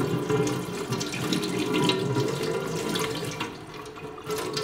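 Hot tap water running and splashing over the removed brew unit of a De'Longhi ECAM coffee machine in a sink, rinsing off coffee grounds; the flow sounds quieter for about a second near the end.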